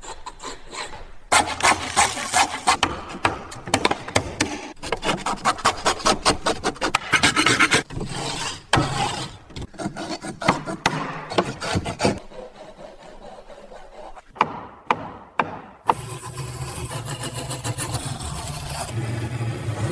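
Wood being worked with a rasp or scraping tool: quick, repeated rough strokes across the wood surface. The strokes thin out to a few sharp clicks and then give way to a steadier rubbing near the end.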